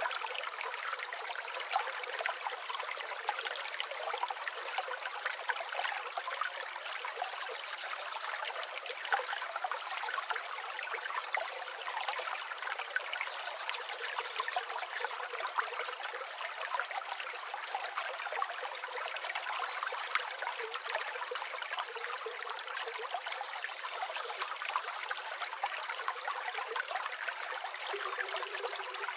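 River water flowing steadily, a continuous rush with many small splashes and no deep rumble.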